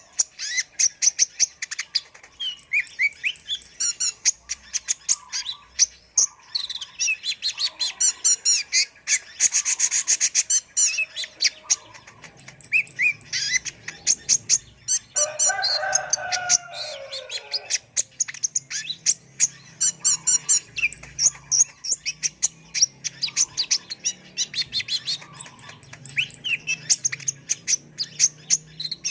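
Kolibri ninja sunbird singing a rapid, high-pitched song of short chirps and trills, with a lower run of falling notes about fifteen seconds in.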